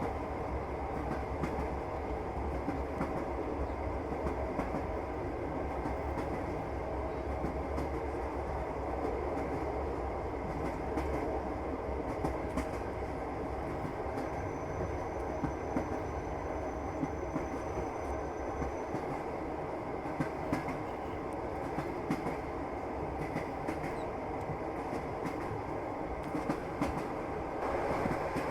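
Passenger train running, heard from inside the carriage: a steady rumble of wheels on rails with scattered clicks of the wheels over rail joints. A faint high whine comes in for a few seconds midway.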